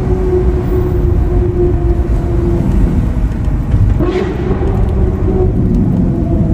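Ferrari 812 Superfast's V12 engine droning steadily at low revs over a heavy low rumble. About four seconds in, its pitch steps up and then keeps rising slowly.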